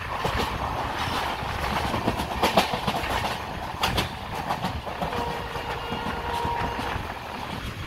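Passenger train running at speed, heard from the side of a coach: steady rumble of wheels on the track, with a few sharp clacks as the wheels cross rail joints. A faint steady whine sounds for about two seconds past the middle.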